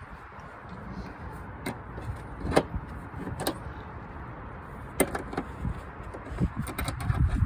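Renault Symbol engine idling through an exhaust with a newly replaced rear silencer, a steady low rumble. A few sharp clicks come through it, and the rumble grows louder near the end.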